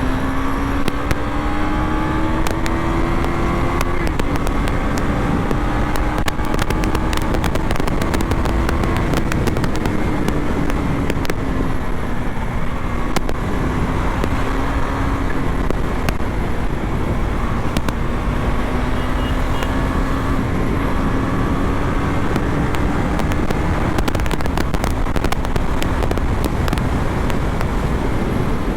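KTM Duke 250 BS6's single-cylinder engine running through a full-system Akrapovic exhaust while being ridden, its note rising and falling gently with the throttle, with a constant rush of wind and scattered sharp crackles.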